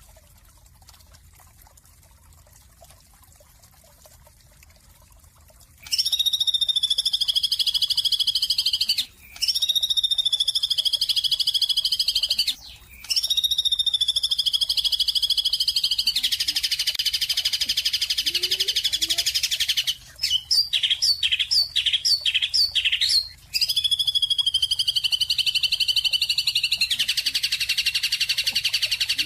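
Songbird singing in long, loud rapid trills of about three seconds each, with short breaks between. About two-thirds through there is a run of short repeated chirps at two to three a second. The first several seconds are quiet.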